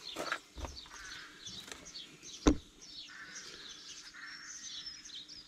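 Small birds chirping and singing in the background, with one sharp knock about halfway through.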